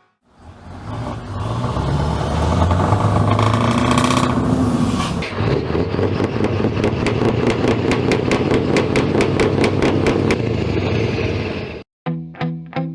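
Truck diesel engine running and revving, then running steadily with a rapid, even ticking of about four beats a second. It cuts off abruptly near the end as music with a plucked guitar begins.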